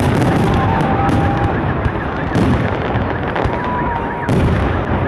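Fireworks display: a dense, continuous run of bangs and crackling bursts, with a few short whistles over the top.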